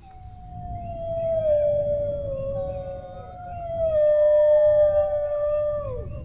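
Dogs howling together: one long howl that slides slowly down in pitch, swells twice and drops away near the end, with other dogs howling higher over it and a low rumble underneath.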